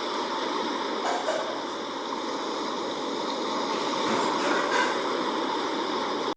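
Sea waves washing in a steady, rushing surf noise with gentle swells, cutting off abruptly at the end.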